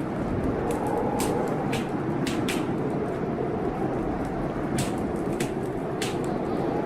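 Blizzard wind blowing steadily with a faint, wavering howl, and a wood fire crackling with scattered sharp pops.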